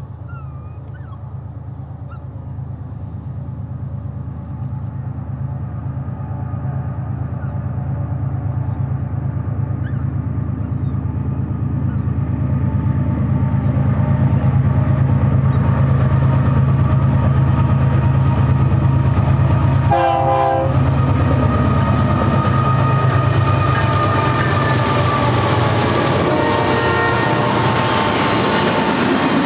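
Freight train cars and wheels running past steadily, while the diesel locomotives of a second, approaching BNSF train grow louder over the first half. A short locomotive horn blast comes about two-thirds of the way in.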